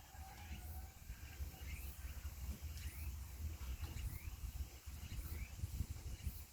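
Short rising bird chirps, repeated every second or so, over a low fluctuating rumble.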